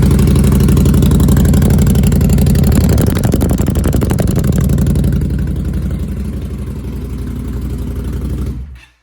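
Victory Octane's V-twin engine idling with a deep, throaty note through RC Components slip-on mufflers. The level eases down a little after about five seconds, and the sound cuts off sharply near the end.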